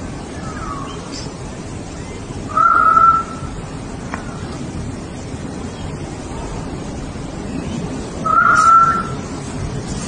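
A bird calling twice, about six seconds apart: two short, loud calls that hold one pitch, with a fainter call near the start, over a steady background noise.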